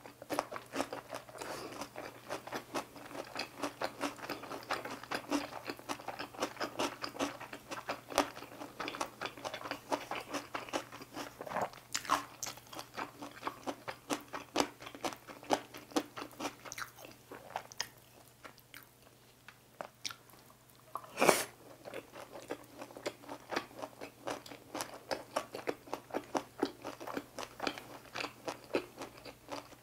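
Close-miked chewing of crunchy food, a quick run of wet crunches and bites that thins out in a lull about two-thirds through. A single sharp clack, the loudest sound, comes just after the lull.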